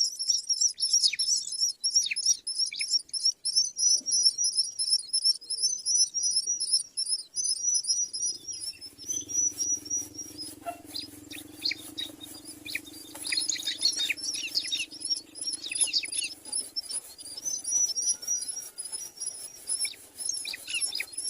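Myna birds chirping in quick, evenly repeated high chirps. The chirps pause for a few seconds in the middle. A low steady hum runs under that middle stretch.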